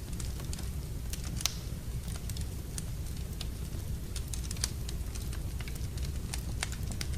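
Wood fire burning in a fireplace: irregular crackles and pops over a steady low rumble, with the sharpest pops about one and a half seconds in and again past the four-and-a-half-second mark.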